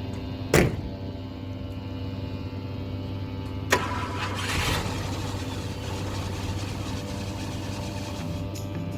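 1967 Ford Thunderbird's 390 V8 idling steadily, with two sharp knocks, one about half a second in and another a little under four seconds in, the second followed by a brief burst of noise.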